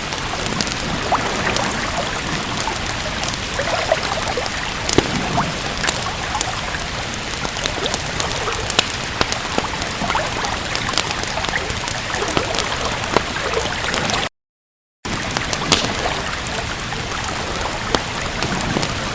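Steady rain with frequent sharp crackles and pops from a wood fire. The sound cuts out to total silence for just under a second about fourteen seconds in, then resumes unchanged.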